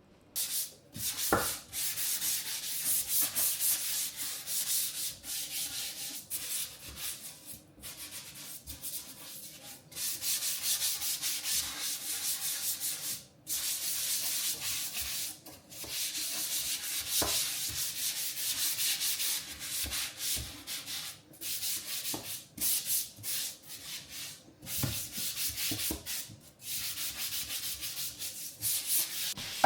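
Scrubbing a surface in repeated rubbing strokes, going on with short pauses now and then.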